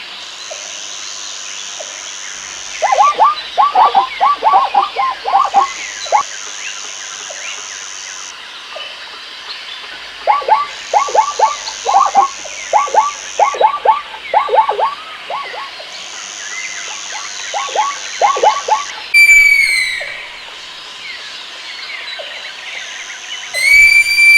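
Animal calls: bouts of rapid, short, falling croaks, with a high buzz that starts and stops about every two seconds behind them. Near the end come two loud calls that rise and fall in pitch.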